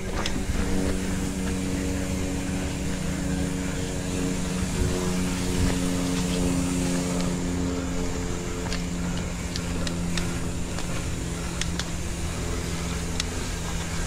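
Mountain bike rolling along a trail, its rear freehub buzzing steadily while coasting over a rumble of tyres and wind, with a few sharp clicks and ticks in the second half.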